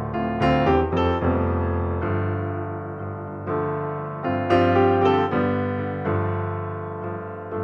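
Soft solo piano music: slow chords and notes struck and left to ring and fade.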